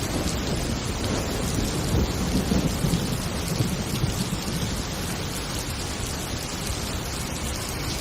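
Heavy rain falling steadily, with a low rumble of thunder in the first half that fades out toward the end.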